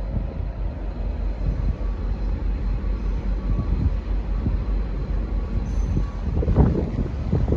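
V/Line N class diesel-electric locomotive and its carriages rolling out of the station: a steady low rumble of engine and wheels on rail, with louder uneven bursts of rumbling near the end.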